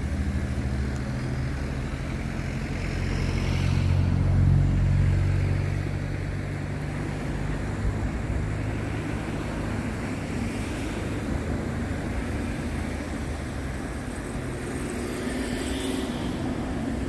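A low, steady rumble that swells about four seconds in, then settles back.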